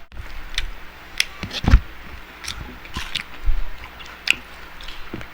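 Close-miked eating: biting into and chewing spicy fried chicken, with wet chewing and scattered crisp clicks. A dull thump about a second and a half in is the loudest sound.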